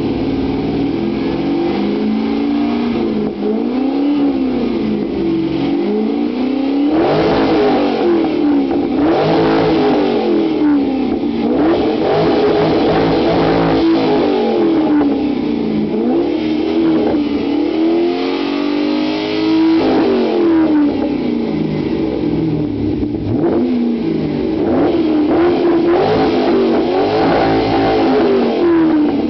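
Vauxhall VXR8's 6.0-litre LS2 V8 free-revving while stationary, its pitch rising and falling over and over through the exhaust, in quick blips and a few longer climbs.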